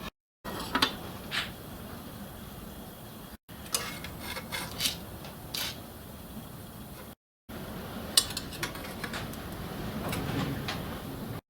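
Light metallic clinks and taps of steel parts and hand tools being handled on a workshop bench, over a steady low workshop background. The sounds come in short stretches broken by abrupt silent gaps where the recording is cut.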